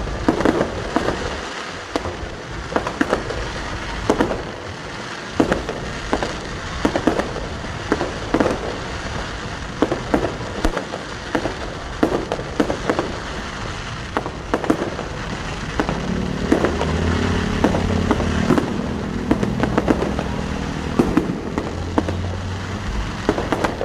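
Fireworks display: a continuous run of shell bursts, about one or two sharp bangs a second, with crackling over a steady rumble.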